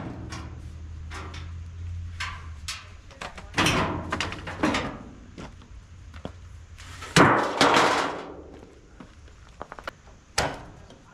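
Knocks and clatter of dryer parts being handled and dropped while the dryer is taken apart for scrap. There are a few separate clanks, and the loudest crash comes about seven seconds in.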